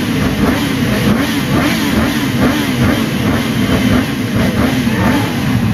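Yamaha R1 inline-four sportbike engine running through its exhaust, its pitch wavering up and down as the throttle is worked.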